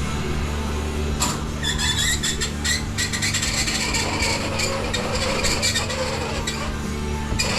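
A motor hums steadily while metal parts rattle and click, the rattling starting about a second in.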